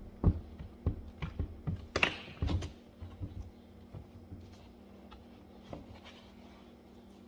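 Handling noise: a string of clicks and dull knocks, with a short rustle about two seconds in, busiest in the first three seconds and thinning to a few faint taps, over a faint steady hum.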